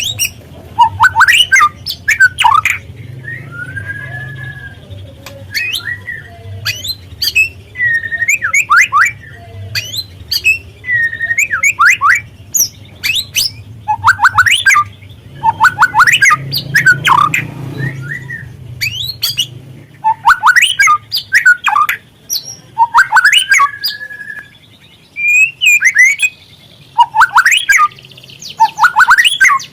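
Juvenile white-rumped shama (murai batu trotol) calling in short bursts of sharp clicks and quick downward-sweeping whistles, with brief pauses between phrases. A low steady hum runs underneath.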